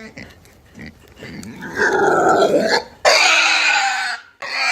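Animal calls: a loud, rough call a little under two seconds in, then a longer, drawn-out pitched call.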